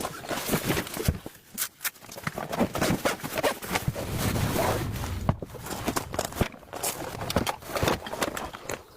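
Irregular knocks, clicks and rustling, with a low rumble about four seconds in that lasts about a second.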